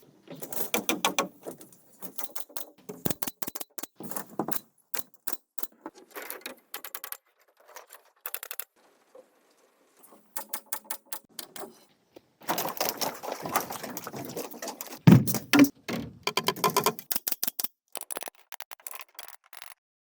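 Bamboo being worked by hand: bursts of rapid clicks and knocks with short pauses. One heavier, deeper knock comes about fifteen seconds in.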